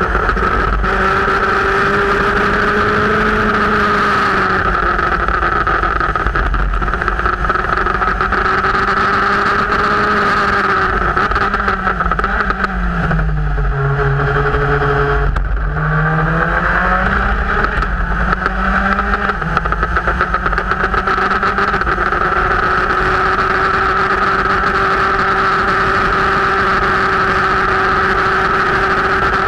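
Formula race car's engine heard from on board, running hard at steady high revs over wind and road noise. About twelve seconds in the revs fall away under braking and downshifts, then climb back through a few quick upshifts before settling steady again.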